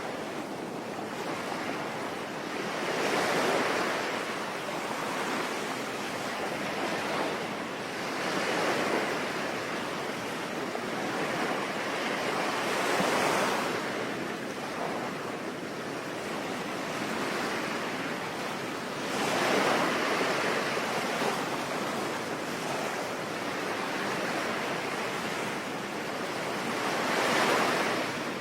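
Ocean waves washing onto a shore, surging every few seconds over a steady hiss of rain.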